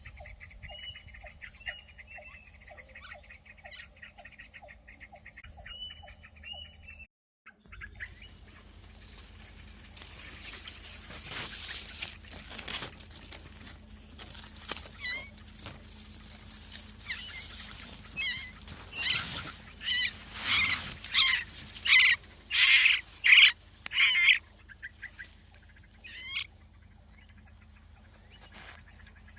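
Birds calling: faint chirping at first, then about two-thirds of the way through a run of about a dozen loud, short calls in quick succession, each falling in pitch.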